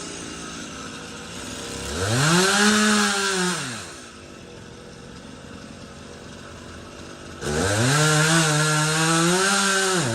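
Two-stroke chainsaw idling and revved up twice: a short burst about two seconds in that rises and falls off, then a longer run near the end held at high speed for about two and a half seconds.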